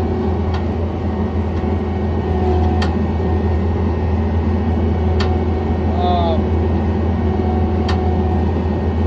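John Deere 317 skid steer loader's engine running steadily under work, with a few sharp clicks scattered through.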